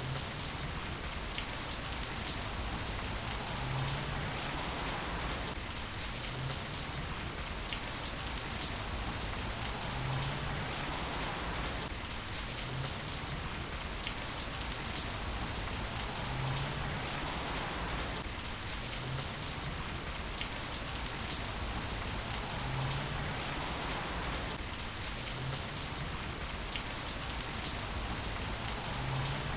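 Heavy rain falling steadily. The same pattern, with a small tick in it, comes back about every six and a half seconds.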